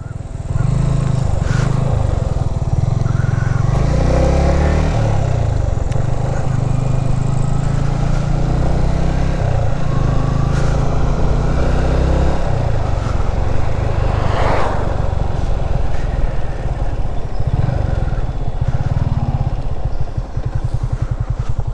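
Motorcycle running steadily while being ridden, with a continuous low rumble, and a brief louder swell of noise about two-thirds of the way through.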